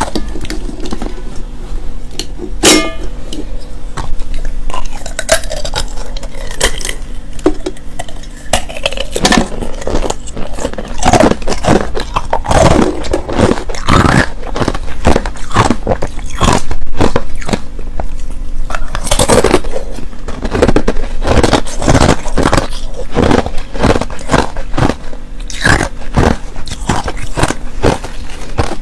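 Clear and powdery crushed ice being bitten and chewed close to the microphone: a run of sharp, irregular crunches, sparse at first and coming thick and fast from about nine seconds in.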